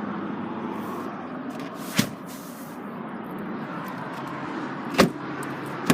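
Two sharp knocks, about three seconds apart, over a steady background hum.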